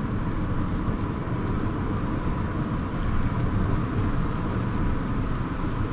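Steady road and engine noise inside a moving vehicle, with a few faint high ticks.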